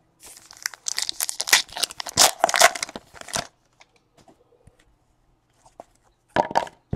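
A trading-card pack wrapper torn open and crinkled for about three seconds, followed by a few light clicks and a short crinkle near the end.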